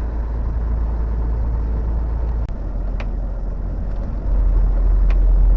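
Inside a moving truck's cab: a steady low rumble of engine and road, with a few faint clicks, growing louder about four seconds in.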